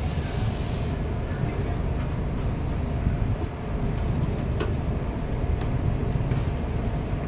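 Steady rumble of a moving passenger train heard from on board, wheels running on the track, with a few scattered clicks and knocks; the sharpest knock comes about four and a half seconds in.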